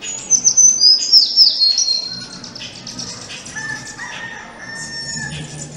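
Birds chirping: a quick run of loud, high, falling chirps in the first two seconds, then fainter calls and a few held whistled notes.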